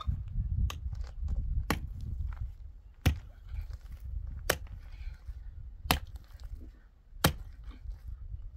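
A series of sharp knocks, about one every second and a half, six in all, over a low steady rumble.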